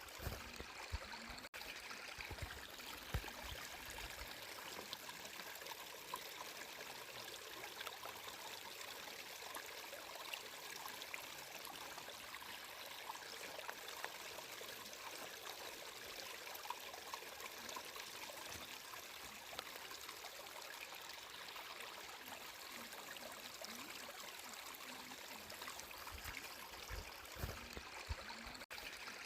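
Water flowing and trickling steadily, like a small stream, with many small splashes and drips through it. The sound drops out for an instant about a second and a half in and again near the end.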